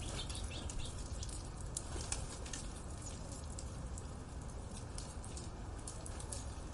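Birds chirping: many short, quick high chirps in rapid succession over a steady low rumble.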